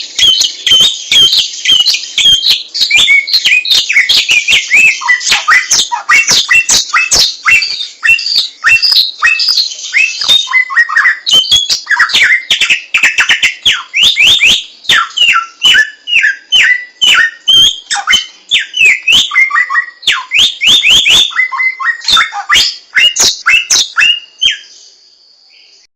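Samyong songbird singing a long, rapid stream of loud whistled notes, many sliding downward in pitch, that stops near the end.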